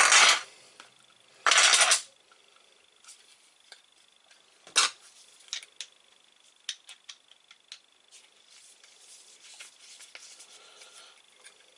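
Small clicks and taps of drain-pipe fittings being handled and pushed together, with one sharper knock about five seconds in. A short burst of hiss comes about a second and a half in.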